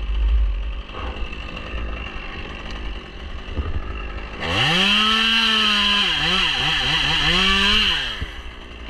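Two-stroke chainsaw revving up to full speed about halfway through, holding high for about three and a half seconds with its pitch dipping and recovering several times, then dropping back.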